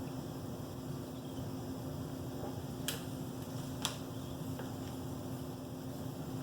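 Steady low hum with two sharp clicks about a second apart, near the middle.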